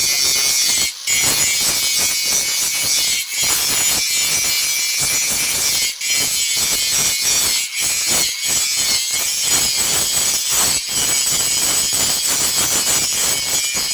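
A tool working metal with a continuous harsh, high-pitched grinding scrape, broken by brief pauses every second or so.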